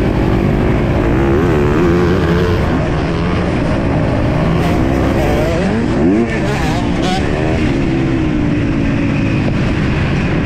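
MX2 motocross bike engine revving hard and shifting, its pitch climbing and dropping again and again, with a sharp climb about six seconds in, over a steady rushing noise.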